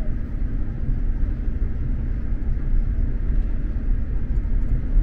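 SJ X2000 high-speed train running at speed, heard from inside the passenger carriage: a steady, deep rumble of wheels and running gear on the track.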